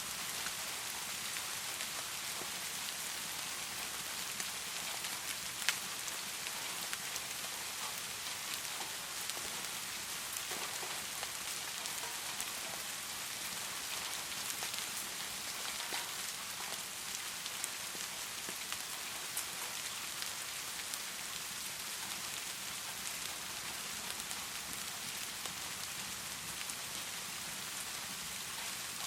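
Heavy rain pouring in a steady hiss, with scattered sharp ticks; the loudest tick comes about six seconds in.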